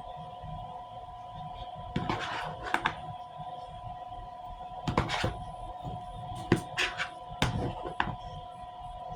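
Close-up eating sounds: short smacks and clicks of chewing and handling food, scattered irregularly, over a steady faint hum.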